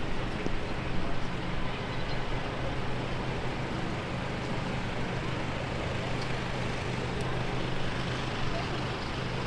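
City street in heavy rain: a steady hiss of rain and wet road traffic, with the low, even hum of a vehicle engine through most of it.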